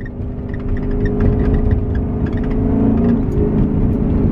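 Chrysler 300's Hemi V8 running under throttle through straight pipes with all mufflers removed, a loud, deep exhaust rumble. It grows louder over the first second, then holds, with the engine note climbing slightly before dipping about three seconds in.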